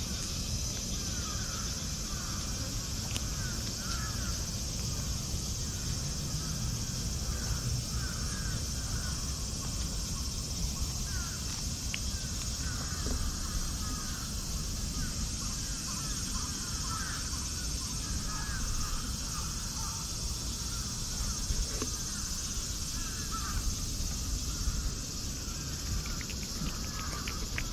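Birds chirping over and over, with a steady high hiss and a low background rumble.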